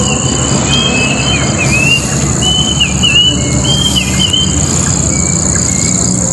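Birds calling in a quick run of short repeated chirps that fade out about two-thirds of the way through. Underneath is a steady high-pitched drone and a steady low rumble.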